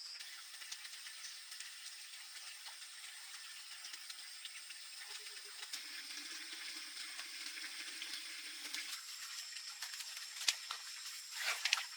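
Insects trilling steadily at two high pitches over a continuous hiss, with a few sharp clicks near the end.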